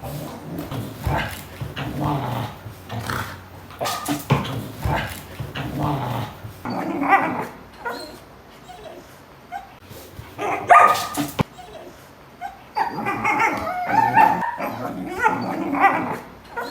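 Border collies playing rough together, growling, yipping and barking in irregular bursts, loudest about eleven seconds in.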